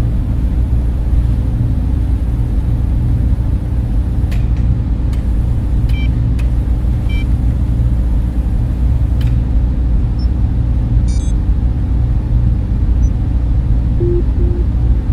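Server room cooling fans running: a steady, dense low rumble and whir, with a few faint clicks.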